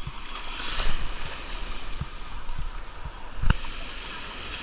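Water sloshing and splashing close by, with a few short knocks; the sharpest knock comes about three and a half seconds in.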